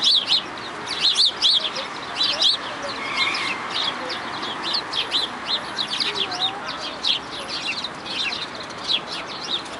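A flock of small birds chirping, a dense stream of short, high chirps overlapping one another.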